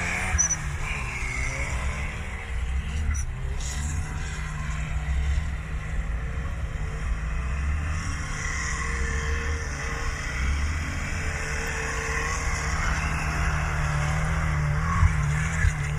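Turbocharged car engine, stock and running at 0.5 bar of boost, as a steady low engine drone while the car is driven.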